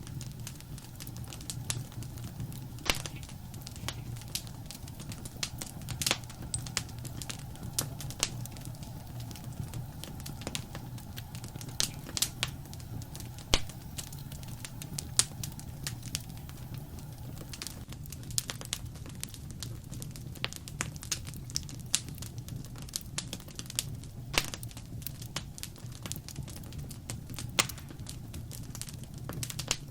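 Wood fire crackling and popping: irregular sharp snaps, a few louder pops among many small ones, over a steady low rumble of the burning fire.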